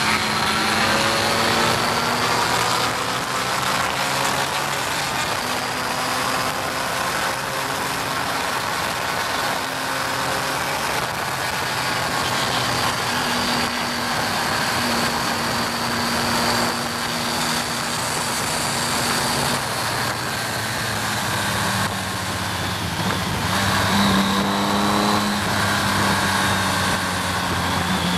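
BMW K75 motorcycle's three-cylinder engine running at speed, heard onboard under a steady rush of wind noise. Its pitch shifts several times with throttle and gear changes and climbs briefly about three-quarters of the way through.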